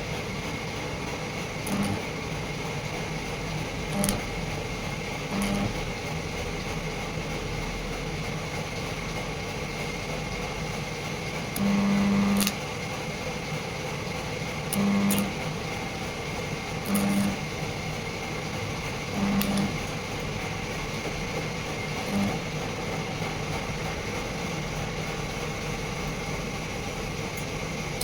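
Steady machine noise with a constant high whine, broken by about eight short low buzzes, the longest lasting nearly a second about twelve seconds in.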